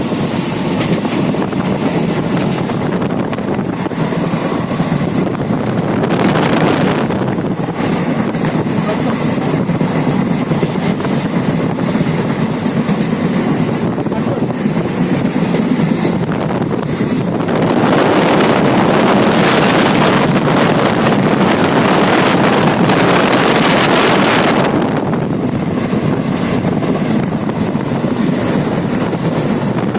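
Steady rumble and rushing noise of a moving vehicle with wind on the microphone. It swells briefly about six seconds in, then grows louder for several seconds a little past halfway before easing back.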